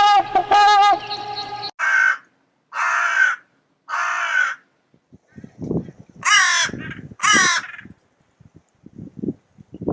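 Animal calls: a wavering, pitched call that cuts off abruptly, then a series of harsh, raspy calls, three about a second apart and two more a little later, with low thuds in between.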